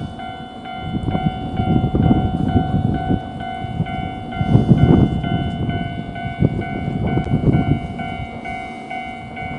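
A train running at steady speed: a constant whine that holds its pitch, over a rumbling clatter that swells to its loudest about halfway through.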